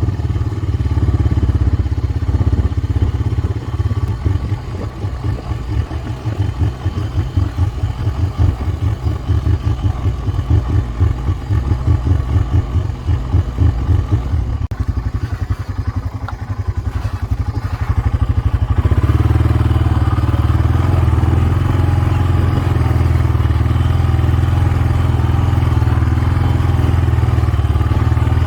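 Four-wheeler (ATV) engine running while being ridden. Its sound pulses unevenly at first, then about two-thirds of the way through it turns steady and a little louder.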